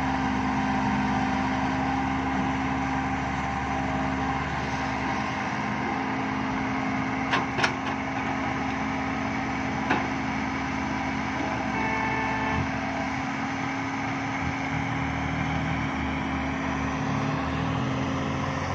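Heavy diesel construction machinery running steadily, with a few sharp knocks about halfway through.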